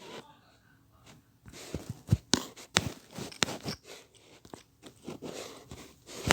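Handling noise: irregular sharp clicks and short crunchy rustles, starting about a second and a half in.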